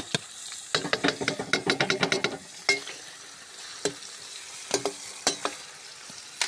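Onions frying in hot oil for plov, a steady sizzle, while a utensil stirs them, scraping and knocking against the pot. The knocks come in a quick run for a second or two, then now and then.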